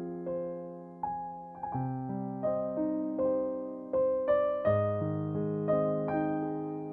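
Background music: slow, gentle piano notes and chords, each struck and left to fade.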